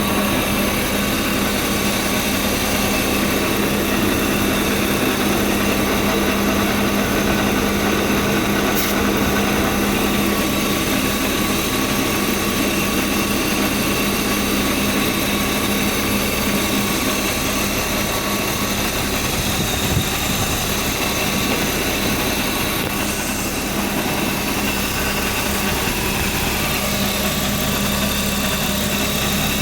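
BMW E36 328i's 2.8-litre straight-six idling steadily, with a single short tap about twenty seconds in.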